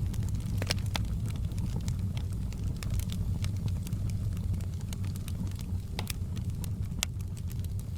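Wood fire crackling, with irregular sharp pops and snaps, a few louder ones, over a steady low rumble.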